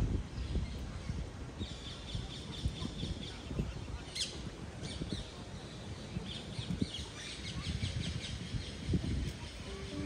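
Birds chirping in runs of short, high trills, with one quick sweeping call about four seconds in, over a steady low rumble.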